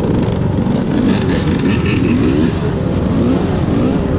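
Motorbike engine running while riding, its pitch rising and falling with the throttle, over heavy wind rumble on the microphone.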